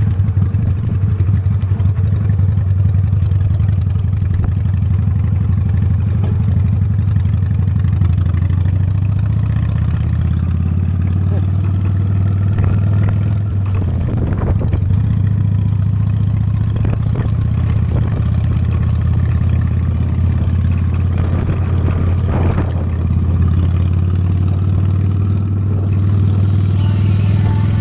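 Honda Steed V-twin motorcycle engine running steadily while riding, a constant low drone, with a few brief rattles about halfway through and again later. A hiss rises near the end.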